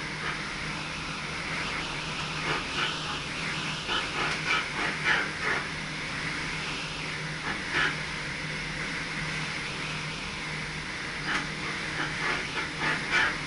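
Inside the cab of an SGM Sprinter electric train: a steady running hum and rumble, broken by several clusters of short, sharp clicks and squeaks.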